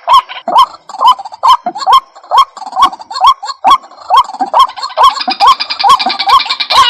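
White-breasted waterhen calling: a loud note, rising in pitch, repeated over and over at about two a second. From about five seconds in, a fast, higher rattling call runs alongside.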